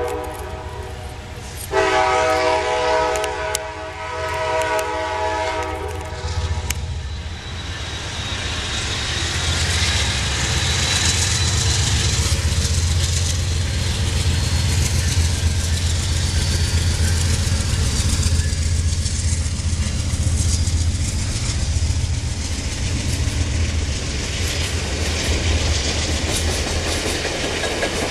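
Amtrak passenger train led by a GE P42DC diesel locomotive sounding its multi-tone horn: the tail of one blast right at the start, then after a short gap a longer blast of about five seconds. The horn then stops and the locomotive's diesel rumble and the passenger cars rolling by with clickety-clack take over.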